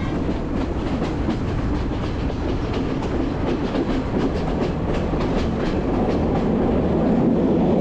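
Class S14 diesel multiple unit train running steadily on the track: an even rumble with a continual clicking of the wheels over the rails.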